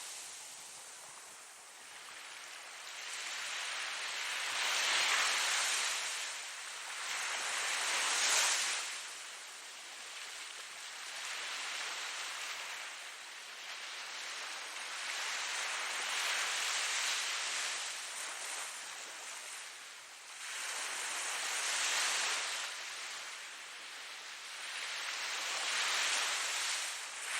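Ocean waves breaking and washing up, the surf noise swelling and fading every few seconds.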